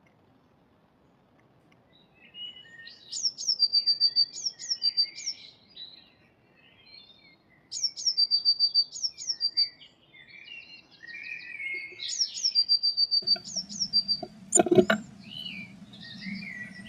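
Blue tit singing: phrases of high thin notes that run into a quick trill on one pitch, repeated three or four times, with softer bird calls in between. Toward the end a low hum comes in and there is one sharp knock.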